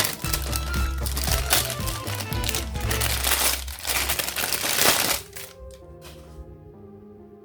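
Toy packaging crinkling and rustling as it is handled, over background music; the crinkling stops about five seconds in, leaving only the music.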